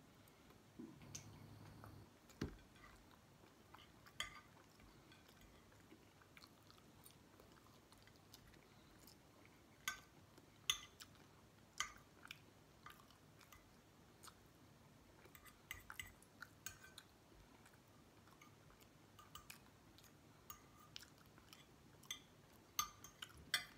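Quiet close-up chewing of burger and fries, broken by scattered sharp clicks of a fork and knife against a plate.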